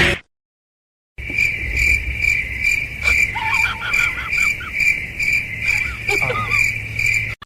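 An insect, cricket-like, trilling steadily in a high pulsing tone about twice a second, with a few short, fainter chirps mixed in.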